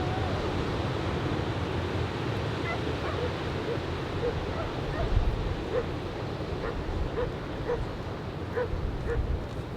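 Steady wind and surf rumble. From about three seconds in, a dog barks over it in short, quick barks, about two a second.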